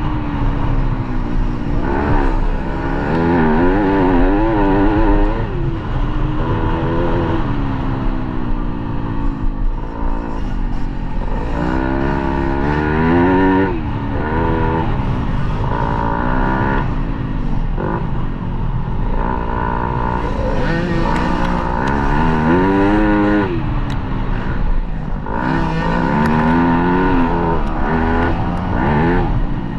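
Dirt bike engine ridden hard, its pitch climbing and dropping over and over with throttle and gear changes, over a steady low rumble.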